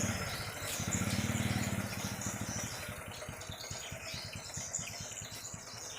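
Swiftlets chirping: repeated short, high twitters. A low pulsing hum runs under them and is loudest in the first two to three seconds.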